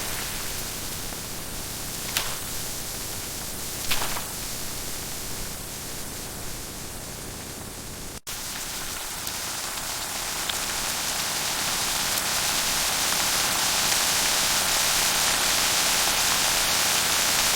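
Steady hiss of heavy rain, with two brief taps about two and four seconds in. The rain cuts out for an instant about eight seconds in, then comes back and grows gradually louder and heavier.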